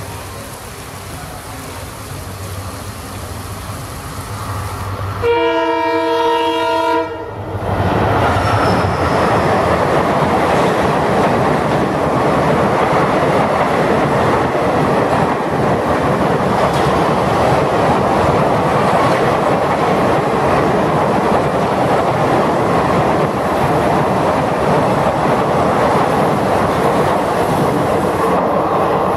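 An EMD WDP4 diesel locomotive approaches with its engine running, sounds its multi-tone horn once for under two seconds about five seconds in, then the passenger coaches rush past at speed with a steady rattle and clickety-clack of wheels on rail joints, with heavy rain falling.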